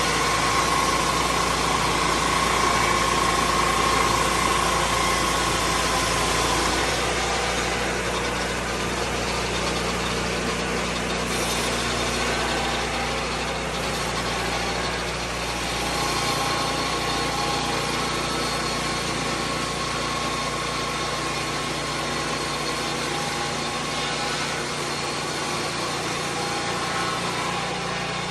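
Lucas Mill 10-30 swing-blade sawmill running steadily under its engine, with a faint steady whine that drops away about six seconds in and returns past the middle.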